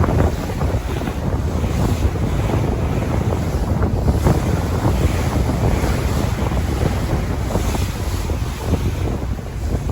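Ocean waves and surf rushing steadily, with wind buffeting the microphone into a heavy low rumble.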